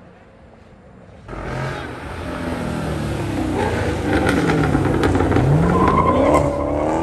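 Muscle car engine comes in loudly about a second in and revs hard as the car launches and pulls away, its pitch dipping and then climbing steeply, with tyres squealing.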